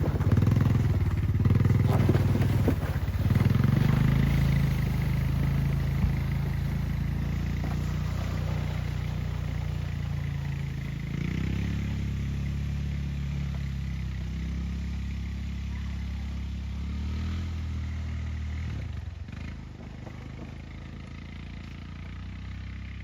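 Four-wheeler (ATV) engine running steadily while towing a sled over snow, its pitch shifting about halfway through and the sound growing fainter as it moves away.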